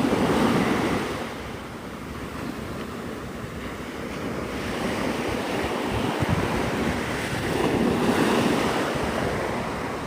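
Surf washing up on the beach in slow swells, one breaking at the start and another building to a peak near the end, with wind buffeting the microphone.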